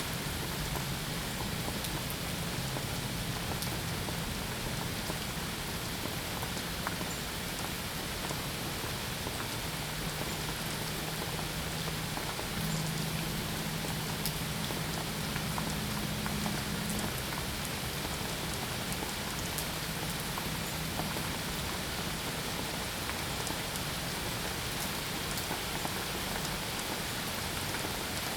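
Steady rain falling, a dense even hiss of drops with no letup. A faint low hum sits underneath, shifting pitch a few times.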